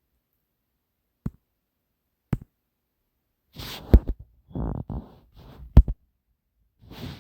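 Two sharp clicks about a second apart, then a couple of seconds of rustling and handling noise with two heavy low thumps.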